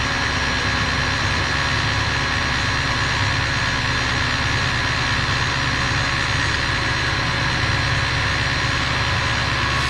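Table saw fitted with a dado head, running steadily.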